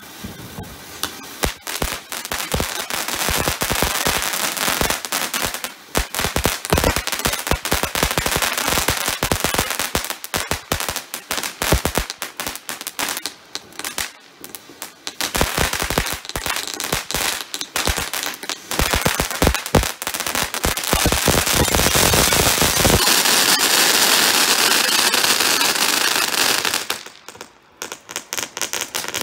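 Firework fountains spraying sparks, with dense crackling and rapid pops. Toward the end a loud, steady hiss holds for about four seconds, then stops abruptly, and the crackling starts again.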